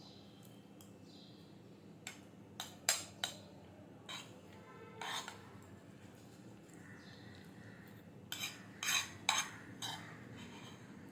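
A spoon clinking and scraping against a dish while eating: short sharp knocks in small clusters, loudest around three seconds and nine seconds in.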